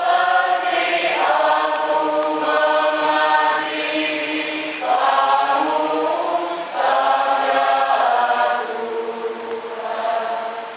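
A church choir singing a hymn in sustained phrases, with short breaks between the lines.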